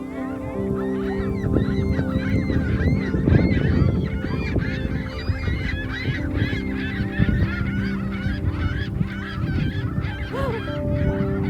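A flock of birds calling loudly and continuously, many short rising-and-falling calls overlapping in quick succession as in a squabble, over a low rumble.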